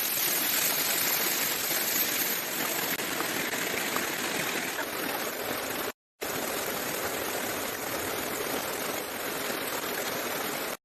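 Heavy rain falling steadily, a dense even hiss that drops out for a moment about six seconds in.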